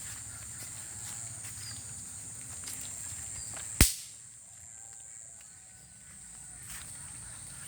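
Steady high-pitched insect drone, with one sharp, loud click or knock about four seconds in.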